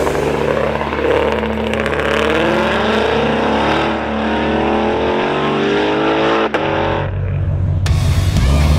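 Ford Mustang V8s from a group of Shelbys accelerating away one after another, their engine notes rising as they pull off. Near the end this gives way to the steady, low drone of a single V8 car driving along.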